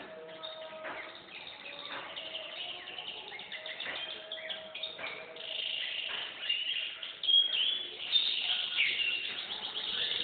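Canary singing: a long run of rapid chirps and rolling trills, getting louder about halfway through.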